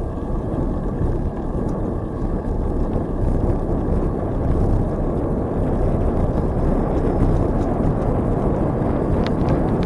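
Steady rumbling wind noise on the microphone of a camera riding along on a moving bicycle, with a few faint clicks near the end.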